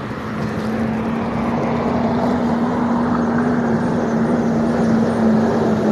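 Motor-vehicle noise by a roadside: an even rumble with one steady low engine hum, slowly growing louder.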